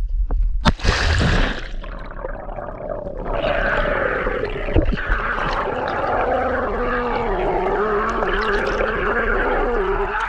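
A splash about a second in, then a steady rush and gurgle of lake water with a wavering tone in it, as if heard underwater.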